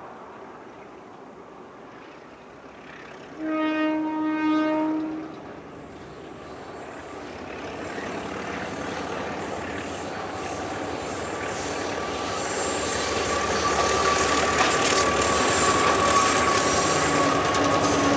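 A diesel locomotive's horn sounds one long blast about three seconds in. Then a narrow-gauge diesel grain train approaches and passes, its engines and rolling wheels growing steadily louder.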